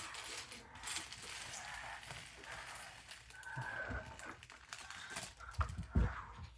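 Plastic bags of Lego pieces being handled, with rustling, crinkling and small clicks throughout and a few dull thumps near the end.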